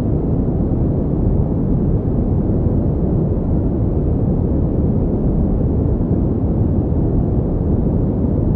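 Continuous pink noise: a steady, deep hiss with most of its weight low down and little treble, unchanging in level throughout.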